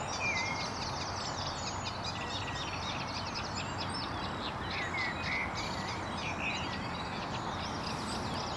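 A flock of swallows, house martins and swifts twittering overhead in many short, high chirps, over a steady background hiss.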